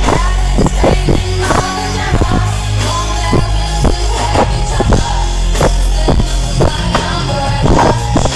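Live pop concert music over a loud sound system, with heavy bass and a steady drum beat.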